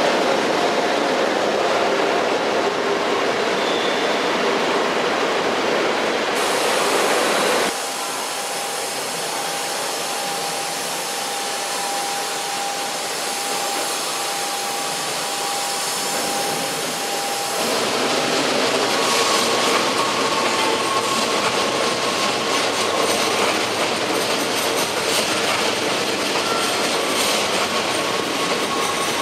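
Electric passenger trains on the move: an NS double-deck train rolls past first. About eight seconds in the sound cuts to a quieter scene with a steady whine. Near the two-thirds mark it swells again as an NS Sprinter Lighttrain electric multiple unit comes through, with wheels rolling and ticking over the rails and a motor whine.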